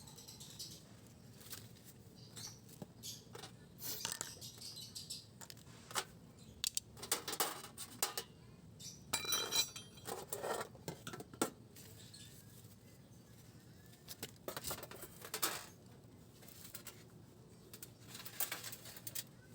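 Scattered light metallic clinks and a few short scrapes, as of small metal tools and parts being picked up and set down.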